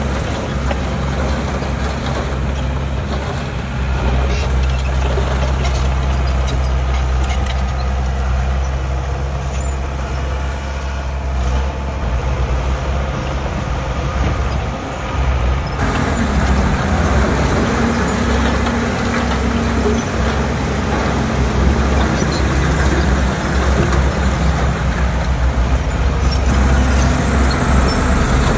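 Heavy diesel earthmoving machinery running steadily with a low engine drone. About sixteen seconds in the sound changes abruptly and gets louder, with a higher steady engine note.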